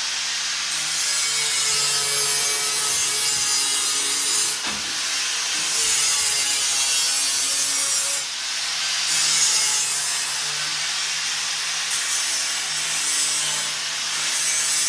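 Continuous rasping, sanding-like abrasive rubbing with a faint steady low hum underneath. Its texture changes every couple of seconds.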